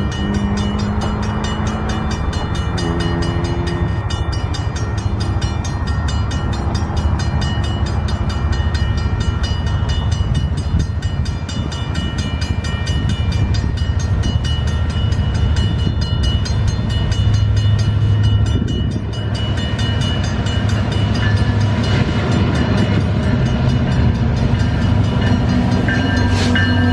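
A train passing at a level crossing: a steady low rumble of the locomotive and rolling cars, with a rapid, evenly repeating ringing from the crossing bell over it.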